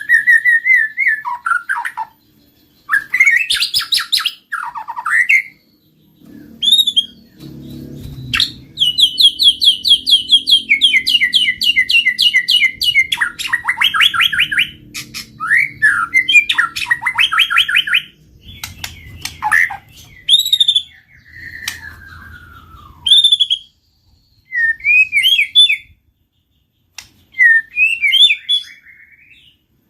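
White-rumped shama (murai batu) singing loudly: a varied run of clear whistled notes, rapid trills and sliding phrases, broken by short pauses.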